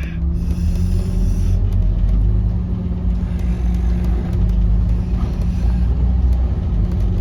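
Scania N230UD double-decker bus's engine running steadily with a low drone, heard from inside the moving bus over road rumble.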